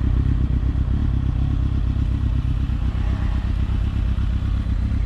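Kawasaki ZX-636R's inline-four engine running steadily at an even, low pitch.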